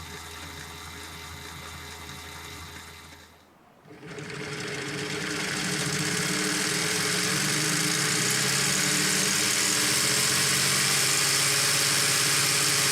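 Lego Technic four-cylinder H-engine model being spun by a motor: after a softer hum and a brief drop about three and a half seconds in, it spins up over a couple of seconds and runs steadily and loudly, the plastic pistons and gears whirring and rattling.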